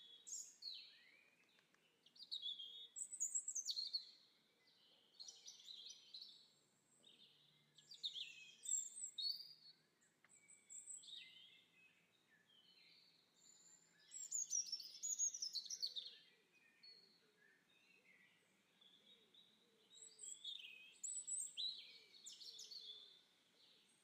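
Birds chirping and calling in phrases of quick, high, sweeping notes, with a new phrase every few seconds and short pauses between.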